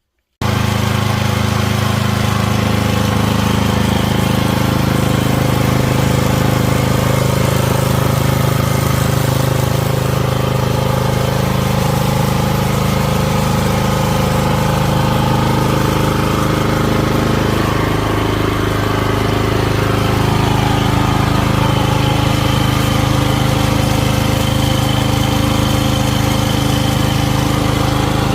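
A small engine running steadily at a constant speed, setting in abruptly just after the start.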